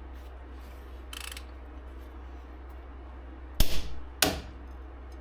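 Click-type torque wrench on an axle nut clicking twice, sharp and loud, about two-thirds of a second apart: the nut has reached the 150 ft-lb set on the wrench.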